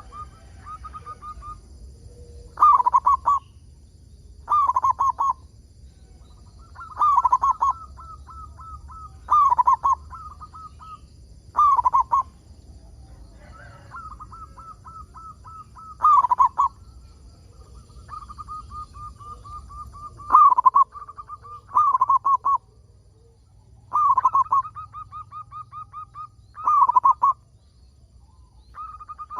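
Zebra dove (perkutut) cooing song: runs of quick soft notes, each phrase ending in a louder coo, repeated about every two to three seconds.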